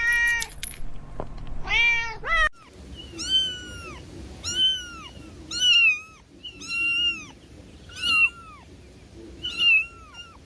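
Kitten meowing: a few high calls, then after an abrupt break a regular series of high, arching meows about one a second.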